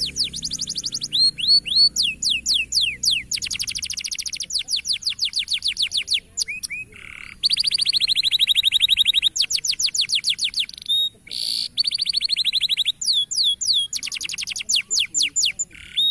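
Canary singing a fast rolling song of rapidly repeated high down-slurred notes, switching from one trill to the next every second or two, with a very fast, dense trill near the middle. The song stops suddenly at the end.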